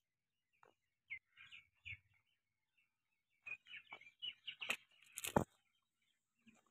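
Small birds chirping faintly in short scattered calls. About five seconds in come a couple of sharp knocks, the loudest sounds here.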